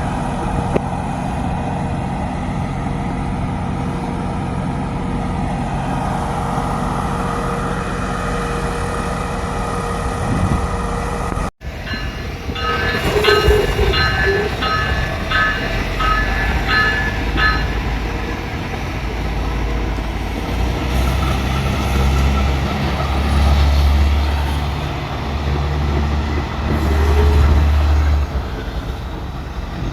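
Diesel commuter train: a steady engine hum, then a bell dinging about twice a second for a few seconds, then a strong deep engine drone that swells in the second half.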